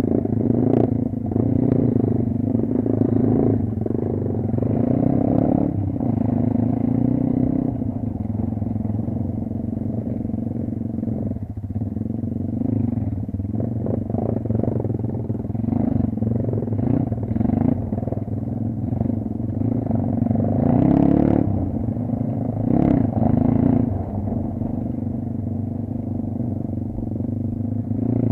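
Kayo dirt bike engine running while riding, its revs rising and falling with the throttle, with a few knocks and clatters about three quarters of the way through.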